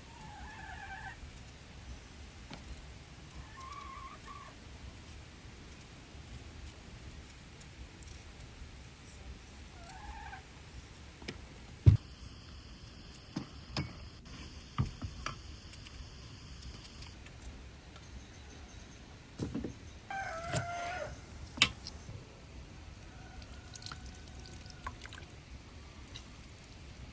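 Several short animal calls, a few seconds apart, with a cluster of sharp knocks in the middle; the loudest knock comes about twelve seconds in.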